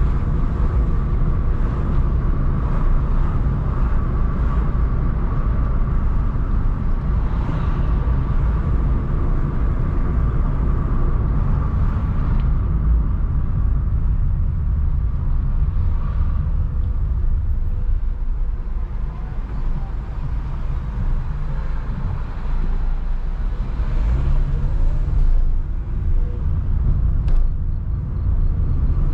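Car driving on city streets: a steady low rumble of engine and road noise, rising briefly about three-quarters of the way through.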